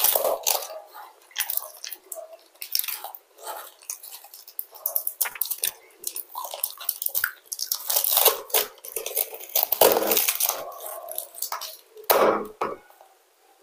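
A person chewing food close to a clip-on microphone: wet smacking mouth sounds and sharp little clicks, irregular and starting and stopping throughout.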